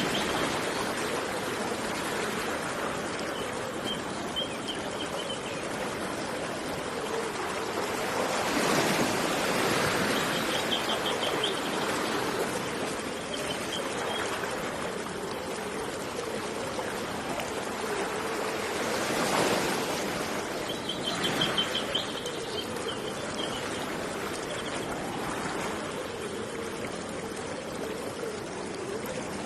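A river flowing steadily, with the water swelling louder twice, about a third and two thirds of the way through. A bird gives short rapid trills several times over it.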